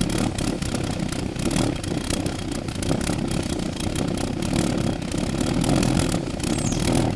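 Jam jar pulse jet engine running: a steady, rapid, crackling buzz of fast combustion pulses with a faint steady hum under it.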